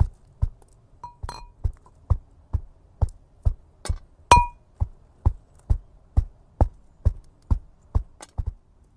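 A steady series of sharp knocks, a little over two a second. A few of the strikes ring with a clink, the loudest just after four seconds in.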